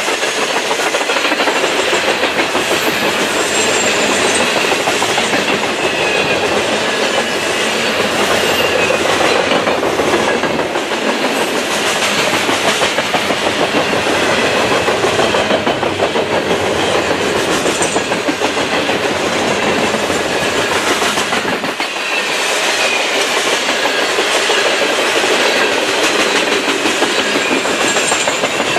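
Freight train cars rolling past close by, steel wheels clattering over the rail joints in a rapid clickety-clack. Faint high squeals come and go.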